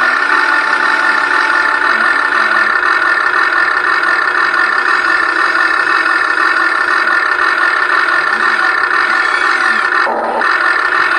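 Huina 1580 V5 radio-controlled excavator running with a steady mechanical whirring. It breaks off briefly about ten seconds in, then carries on.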